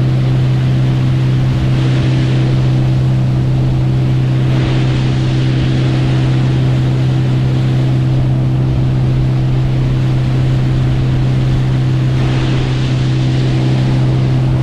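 Motorboat engine running at a steady speed, one constant low drone, with the rush of wind and water over it.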